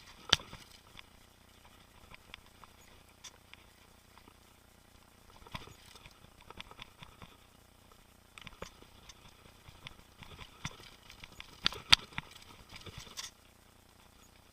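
Mountain bike rattling and knocking over a rough trail: irregular clicks and clatter from the bike, with stretches of tyre hiss. A sharp knock comes about a third of a second in and another near twelve seconds, and the tyre noise stops suddenly a little after thirteen seconds.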